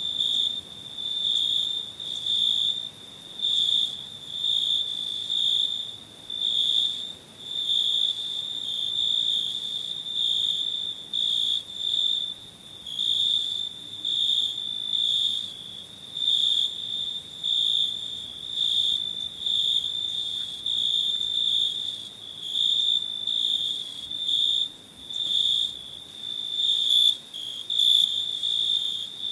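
Crickets chirping at night: a high, shrill trill held near one pitch, pulsing louder and softer about once a second.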